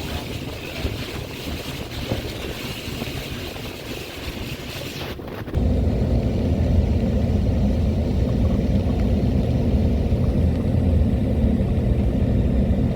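A vehicle running with a steady low rumble, which becomes louder and deeper after an abrupt cut about five seconds in.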